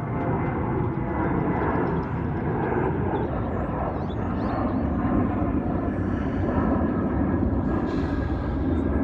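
Southwest Airlines Boeing 737 jet engines at takeoff power as the airliner climbs out: a steady, loud jet noise.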